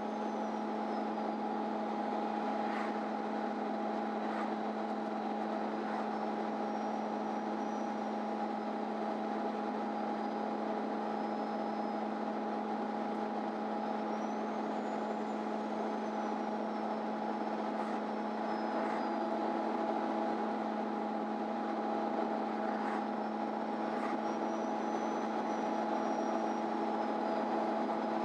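Interior ride noise of a MAN Lion's City Ü bus under way: a steady drone with a high whine that rises and falls slowly several times as speed changes, and a few faint clicks.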